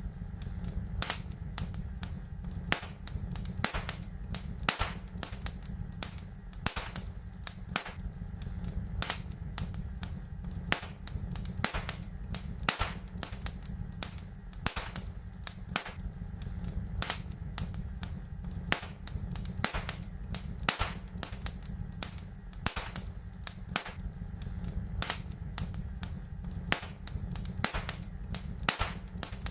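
Wood fire crackling in a fireplace: irregular sharp pops and snaps, several a second, some louder than others, over a steady low rumble.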